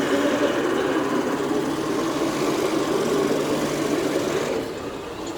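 A remote-controlled scale model vehicle running, a steady mechanical drone that turns quieter near the end.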